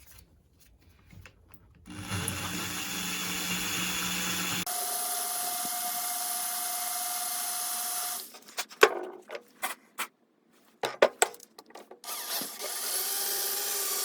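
Electric drill running, boring a small hole into a cast-iron motorcycle flywheel beside a hardened thrust washer. The drill runs steadily for several seconds, gives way to a string of sharp clicks and knocks, and starts again near the end.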